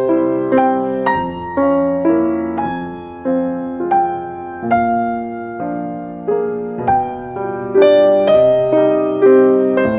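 Background piano music: a slow run of soft chords and single notes, each struck and left to ring out.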